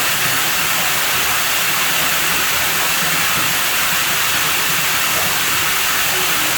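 Running water at a pool villa, a steady, even rush with no breaks.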